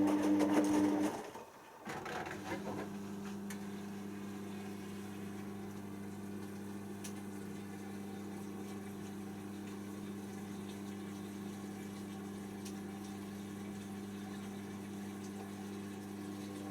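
Hoover DYN7144XD1 washing machine running mid-cycle: a steady mechanical hum of its motor or pump, with water running. The sound is louder in the first second, dips briefly, then settles to an even drone.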